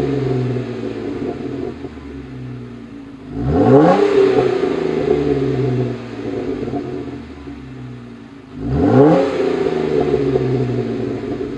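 Jeep Wrangler JK's 3.6-litre V6 through a Flowmaster Force II axle-back exhaust with an 80 Series cross-flow muffler, revved twice: each time the note rises quickly, then eases back down to a steady drone.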